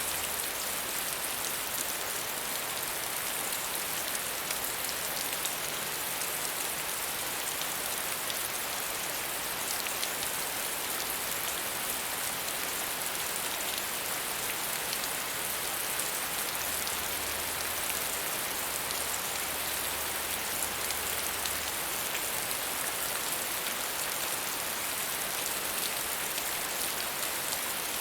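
Steady medium rainfall: an even hiss of rain with many small drops pattering on a surface.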